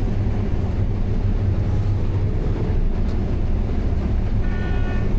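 Combine harvester running steadily while harvesting corn: a low, even drone of the engine and threshing machinery. About four and a half seconds in, a steady high tone with several pitches begins and holds.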